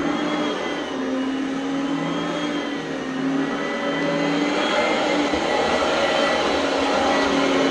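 Oreck Elevate Conquer upright vacuum cleaner running while being pushed over the floor: a steady motor whine whose pitch wavers slightly as the load changes.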